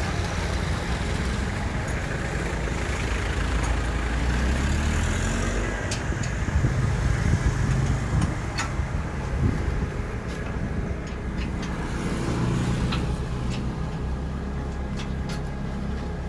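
A heavy vehicle's engine running, its low hum shifting in pitch a few times, with scattered clicks and knocks.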